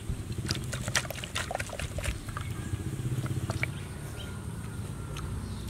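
People eating fried fish close to the microphone: chewing and mouth smacking, with a run of small sharp clicks in the first two seconds and a fast rhythmic chewing pulse about three seconds in.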